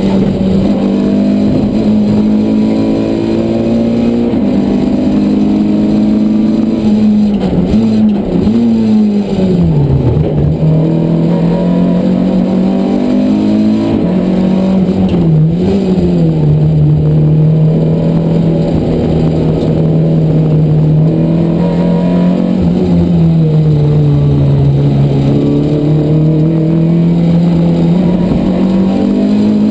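Renault Clio race car's engine heard from inside the cabin while lapping: a loud, steady note held between corners, dropping with quick throttle blips as it brakes and downshifts about a quarter of the way in, dipping briefly near the middle, then falling and climbing again near the end.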